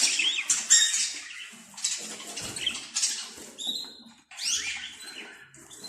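Budgerigars chattering: a busy run of short chirps and quick rising and falling whistles, mixed with scratchy calls.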